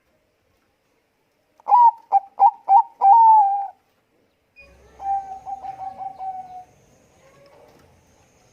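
Bangkok-strain zebra dove (perkutut) cooing: after a silent start, a loud call of four short notes and a longer, falling held note, then a second later a softer rapid rolling trill.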